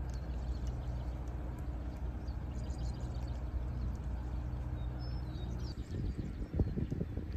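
A vehicle engine idling with a steady low hum, and birds chirping now and then. Near the end the hum stops and irregular low rumbling thumps take over.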